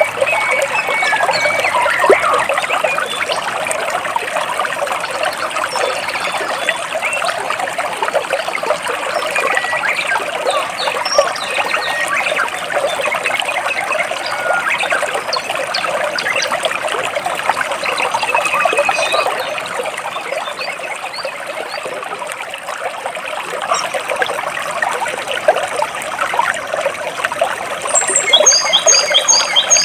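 Stream water trickling and splashing between rocks, with birds chirping now and then; near the end a bird gives a quick run of high chirps.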